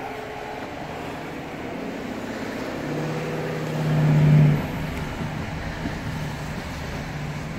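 Truck engine running, heard from inside the cab with road noise. A low, steady note swells louder about three seconds in, peaks around four and a half seconds, then settles back.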